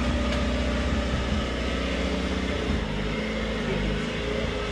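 A box truck's engine running at low speed as the truck creeps forward, a steady low hum that shifts slightly in pitch partway through.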